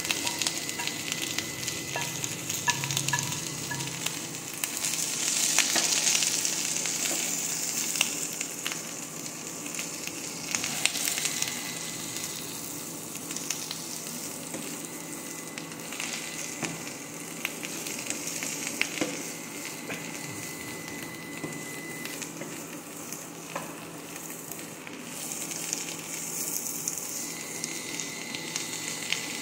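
Sliced button mushrooms and bok choy sizzling in a hot pan while being stirred and turned with a wooden spatula, a steady crackling hiss with small scrapes and clicks. The sizzle swells about five to seven seconds in.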